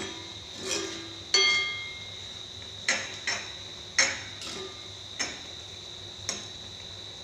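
A utensil knocking and scraping against a kadai while Maggi noodles are stirred in it as the water cooks off: about eight irregular knocks, one ringing briefly like metal.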